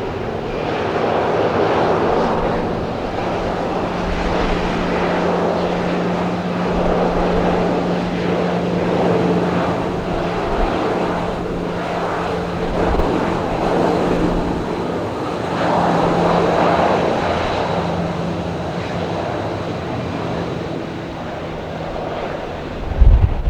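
Boeing 737-800's CFM56 jet engines running, a steady noise with a low hum that swells and eases every few seconds. Just before the end a sudden gust of wind rumbles on the microphone.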